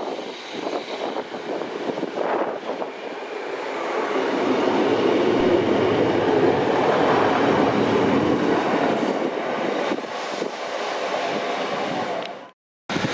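Class 150 diesel multiple unit running into the platform and past close by: its diesel engines and wheels on the rails grow louder a few seconds in, peak as the coaches pass, then ease off. The sound cuts off abruptly near the end.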